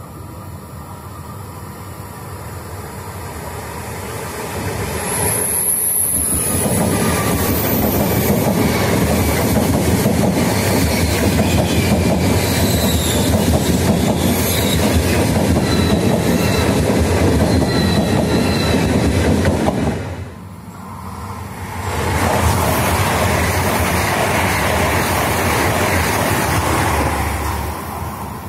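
High-speed electric train running through a station at speed: the rush of wheels on rail builds over the first few seconds, then holds loud for about fourteen seconds with faint whistling squeals. After a brief dip the train noise rises loud again.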